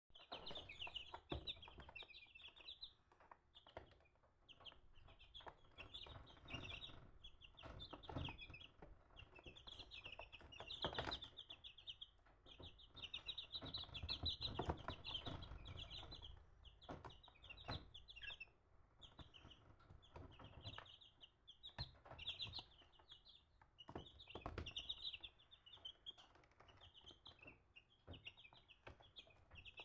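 Chickens cheeping and clucking, a dense run of high peeps that barely pauses, with scattered soft knocks.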